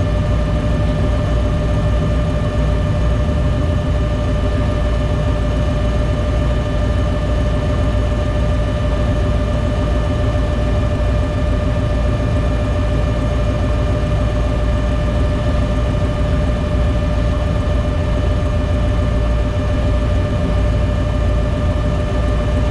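Off-road vehicle engine running at a steady speed, a constant whine sitting over a low rumble throughout.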